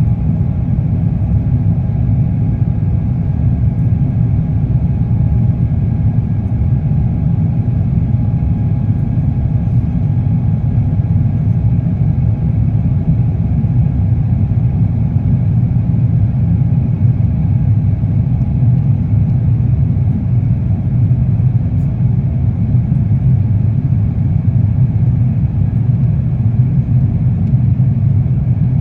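Steady cabin rumble of an Airbus A350-900 in its climb after takeoff: a deep, even drone of its Rolls-Royce Trent XWB turbofans and the airflow, with a faint steady whine above it.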